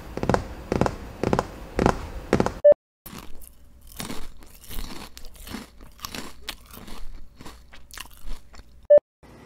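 Close-up human mouth sounds: a run of crunchy strokes about two a second, a short beep, then irregular wet smacking and chewing clicks from closed lips, ending on another short beep.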